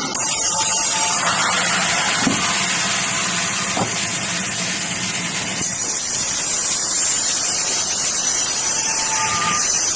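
Steady, loud hissing noise, like a spray or jet of air or liquid, that steps louder about halfway through.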